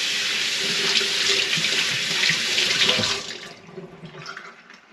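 Tap water running into a kitchen sink in a steady stream, shut off about three seconds in.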